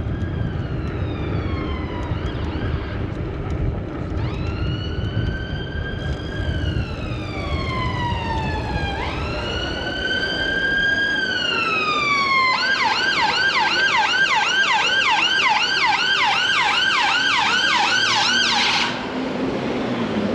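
Emergency vehicle siren: a slow rising-and-falling wail for about twelve seconds, then a switch to a fast yelp of about three to four cycles a second that cuts off suddenly near the end. Low traffic rumble underneath in the first half.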